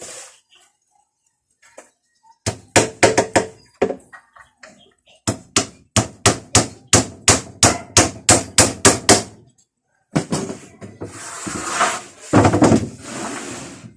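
Hammer blows on wood: a quick burst of about five strikes, then a steady run of about a dozen blows at roughly three a second, as when driving nails. Near the end comes a few seconds of a rough rushing, scraping noise.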